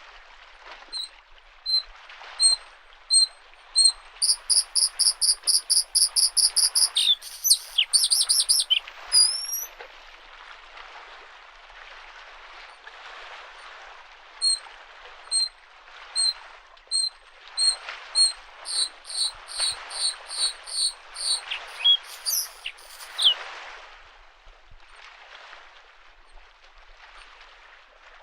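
Bluethroat singing: spaced thin high notes that break into a rapid buzzing trill, then a second run of repeated notes that speeds up. Underneath, small lake waves wash against the shore in soft, repeated surges.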